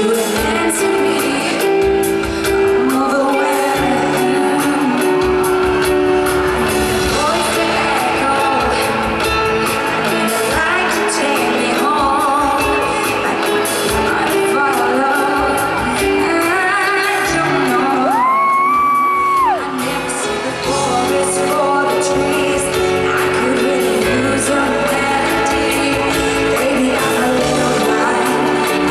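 Live pop ballad performance: a female lead vocal over band accompaniment, heard in the echo of a large concert hall. About two-thirds of the way through, a high tone is held for about a second and a half, then drops away.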